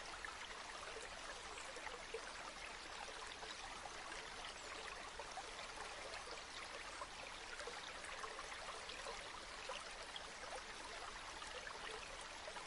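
River water flowing steadily, an even rush with many small trickling splashes.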